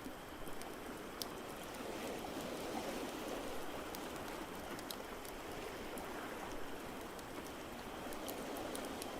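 Layered ambience of ocean waves as a steady rushing noise, with irregular sharp pops from a crackling wood fire scattered throughout.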